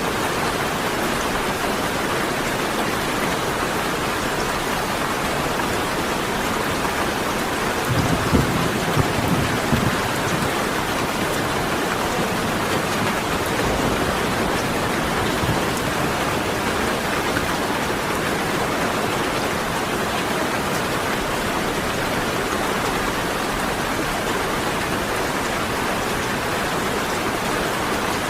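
Steady rain falling, with a brief low rumble of thunder about eight seconds in that swells a few times over a couple of seconds.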